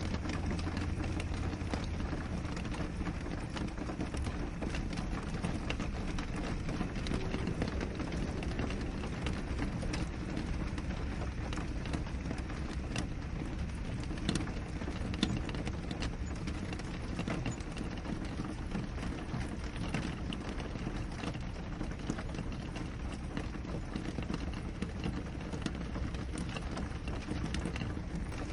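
Steady rain falling on a window: a constant hiss, dotted with many small taps of single drops.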